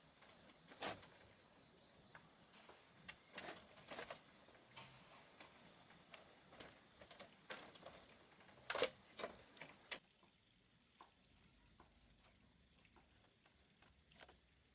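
Near silence with scattered faint clicks and light knocks, a few louder taps among them. A faint steady high whine stops abruptly about two-thirds of the way through.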